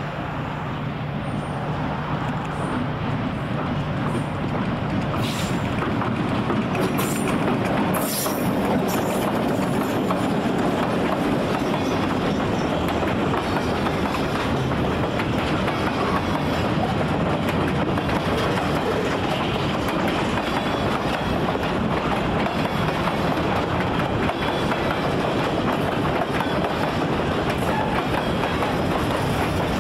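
A train rolling past on the rails, the sound building over the first several seconds and then holding steady, with a few sharp high-pitched clicks about five to nine seconds in.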